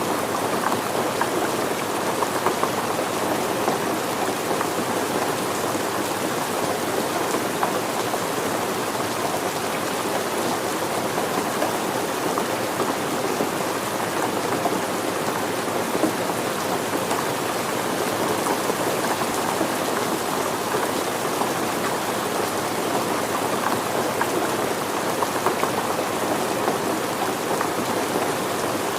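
Steady rainfall pattering on surfaces, an even unbroken hiss of rain with fine scattered drop ticks.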